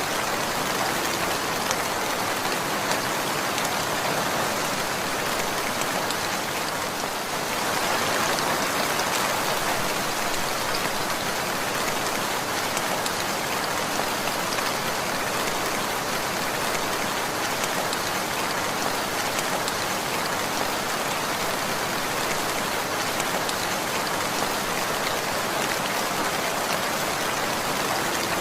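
Steady rainfall, a dense hiss of drops striking a surface with fine individual ticks, swelling slightly about a quarter of the way in.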